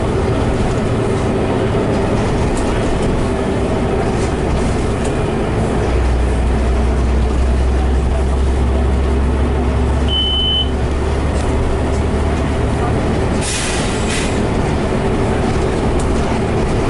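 Scania Omnicity bus running with a steady low engine hum and road noise. A short single high beep sounds about ten seconds in, and a brief hiss of air about thirteen and a half seconds in.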